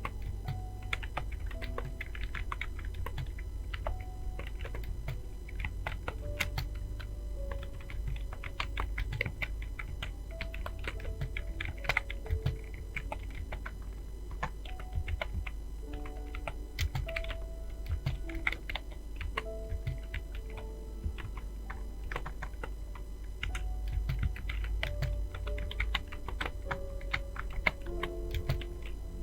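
Fast, irregular typing on a computer keyboard, several key clicks a second, over quiet background music with a steady low bass.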